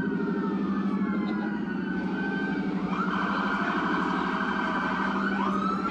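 Police cruiser sirens wailing, their pitch sweeping slowly down and back up, then holding a high warbling tone for a couple of seconds before rising again near the end. A steady low drone runs underneath.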